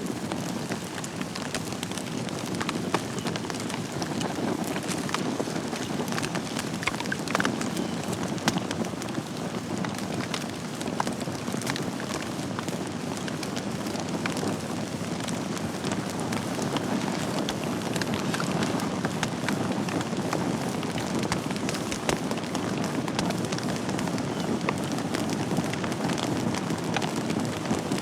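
Wood fire burning in a fireplace: a steady low rushing hiss with many small crackles and pops scattered irregularly through it.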